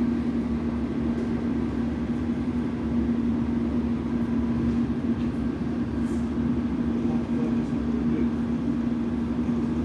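London Underground District line train: a steady low rumble with a constant electrical hum running underneath, even throughout with no change in pitch.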